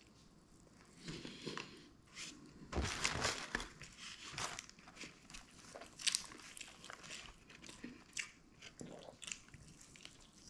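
Biting into and chewing a crispy fried chicken wing: close-up crunching of the breaded crust and wet chewing, with the busiest crunching about three seconds in and a sharp crunch about six seconds in.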